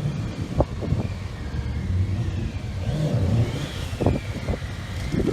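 Stunt motorcycle engine running, with a few short, sharp throttle blips.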